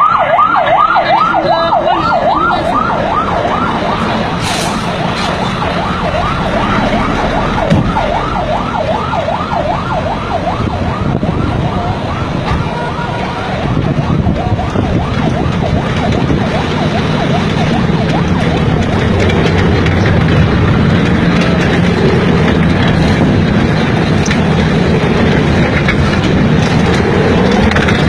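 A vehicle siren in fast yelping sweeps, about three a second, that fades out over the first dozen seconds. Under it the rumble of a vehicle engine grows louder and carries on steadily.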